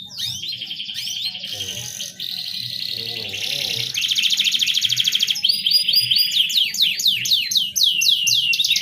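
Canary singing without a break: varied chirps at first, then fast, even rolling trills from about four seconds in, and a run of quick descending whistled sweeps near the end.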